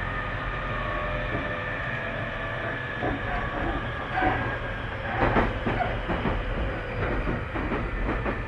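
Tobu 30000 series electric train running at speed, heard from inside the car: a steady hum with held tones from the traction gear, and from about three seconds in the wheels clicking over rail joints.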